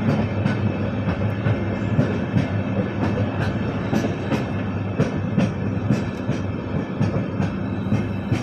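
Passenger train running along the track: a steady rumble of the wheels with frequent irregular clicks and clacks from the rails.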